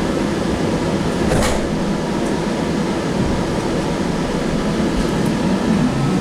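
Sound Transit Link light rail car running along the line, a steady rumble and hiss heard from inside the car. There is one sharp click about a second and a half in, and a faint rising whine begins just before the end.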